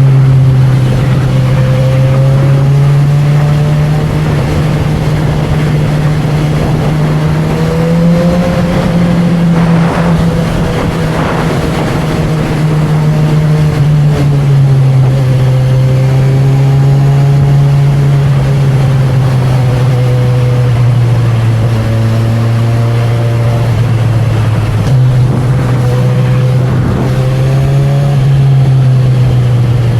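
Honda CB1000R's inline-four engine and exhaust running steadily while riding, the engine note drifting gently up and down with small throttle changes.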